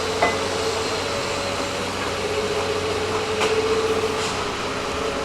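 Engine-driven hydraulic power unit of a scrap-metal crusher running at a steady idle-like hum while the crusher blade is lowered, with a few faint clicks.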